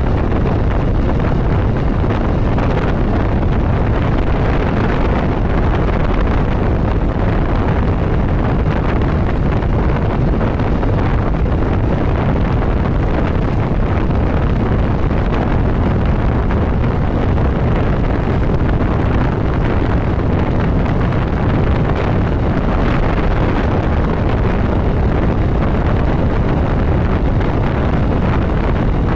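Steady wind rush on the microphone of a motorcycle riding at highway speed, with the bike's running noise underneath.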